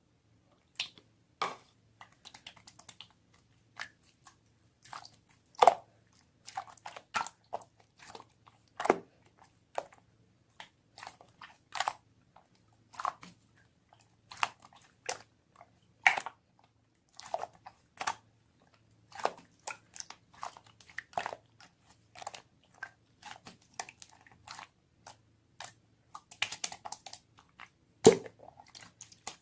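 Mixed slime being squeezed and worked by hand: an irregular stream of sticky clicks and pops, with a few louder pops every few seconds.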